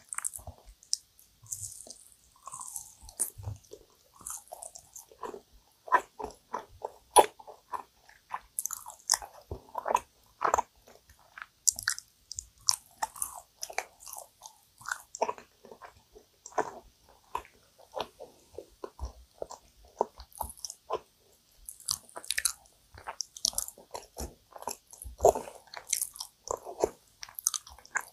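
Close-miked chewing and biting of dense, sticky yakgwa, Korean honey-soaked fried cookies: wet mouth sounds in quick, irregular clicks and smacks with short pauses between bites.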